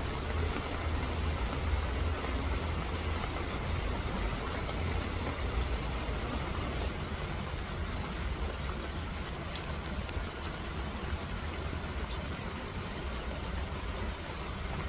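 Steady rain falling, with a low steady rumble underneath and an occasional single drop tick.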